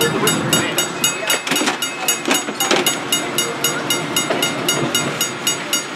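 Electric trolley running on its rails. A steady clicking comes about three times a second, and louder rattling with a thin squeal comes between about one and a half and three seconds in.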